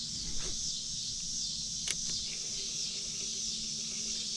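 Steady high-pitched insect chorus with a single sharp click about two seconds in.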